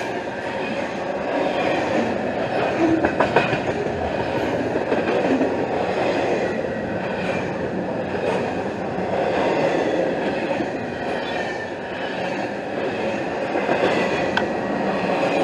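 Double-stack intermodal container train rolling past close by: a steady rumble and clatter of steel wheels on the rails, with a few sharp knocks about three seconds in and a faint high squeal at times.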